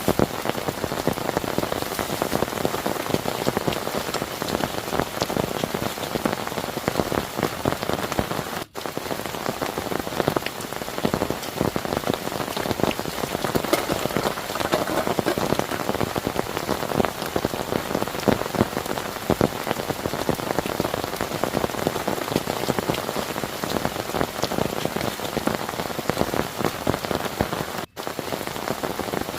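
Heavy rain falling steadily, a dense patter of many drops hitting a surface. It cuts out for an instant twice.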